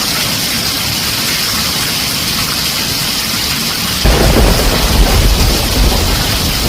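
Heavy rain drumming steadily on a tin roof; about four seconds in a deep rumble of thunder breaks in suddenly and goes on, louder than the rain.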